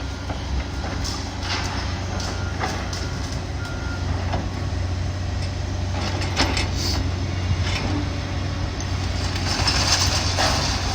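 Heavy demolition machinery's diesel engine running steadily, with scattered knocks and clatter of debris being broken up and a few short reversing beeps early on.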